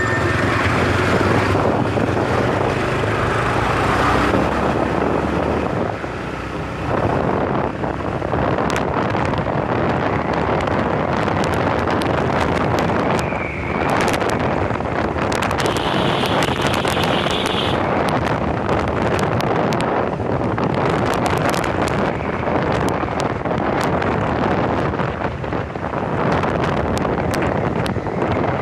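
Wind buffeting the microphone on a moving motorcycle, over steady engine and road noise, with two brief higher tones about halfway through.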